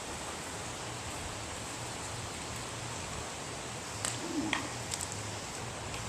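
Steady rushing hiss of river water, with a few faint clicks and a short chirp about four seconds in.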